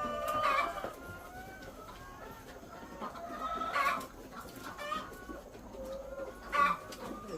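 Egg-laying hens clucking and calling, several drawn-out calls scattered across a few seconds, loudest at the start and again near the end.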